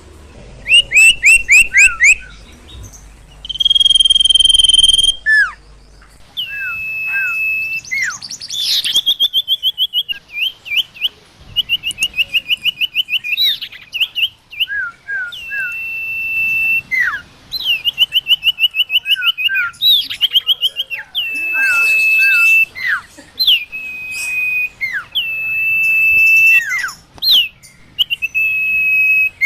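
Bird known in Indonesia as the sirtu or sirpo, calling vigorously and at length: clear whistles held at one pitch after a quick drop, fast trills of short notes, and lower short falling notes in between.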